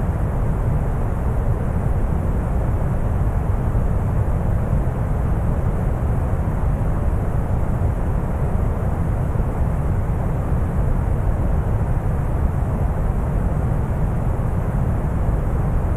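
Steady deep brown noise: a constant low rumbling hiss, heaviest in the bass and thinning toward the treble, with no change or events.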